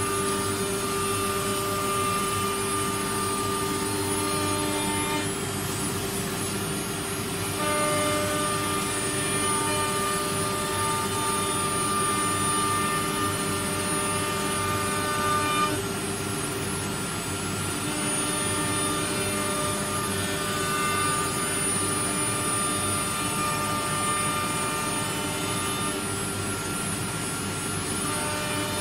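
A CNC woodworking router running: a steady machine hum and whine with several high tones, some of which change every few seconds.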